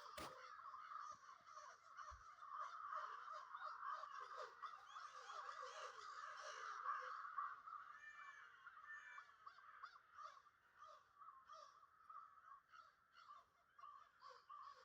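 Faint chatter of many birds calling over one another, a dense mass of short calls that thins out after about eight seconds.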